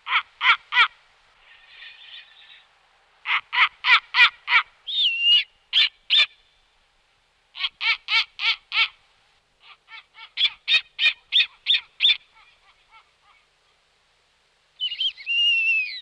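A bird giving harsh, cawing calls in quick bouts of three to six notes, with a drawn-out falling whistled call about five seconds in and again near the end.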